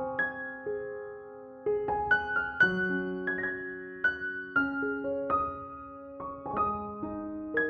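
Gentle solo piano background music: slow, softly struck notes and chords that ring and fade.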